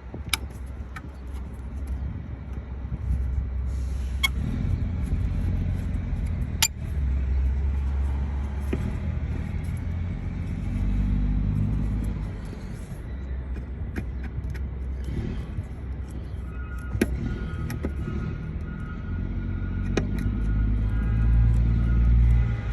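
Low, uneven vehicle rumble with scattered sharp clicks.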